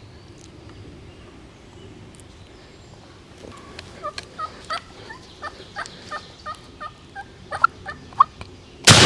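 Wild turkeys giving a run of short sharp putts, about two a second and getting louder: alarm calls from birds that have seen something wrong. Near the end a shotgun fires once, loud, its report ringing away through the woods.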